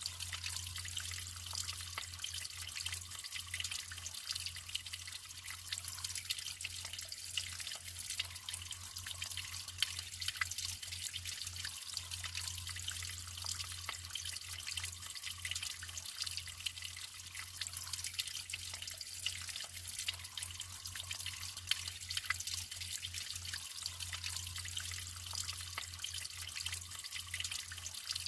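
Natural water trickling and dripping continuously, a steady splashing hiss with many small drips, over a faint steady low hum.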